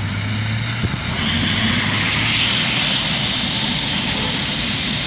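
Steady rushing noise of heavy rain and wind, with a vehicle engine's low hum that fades out about halfway through.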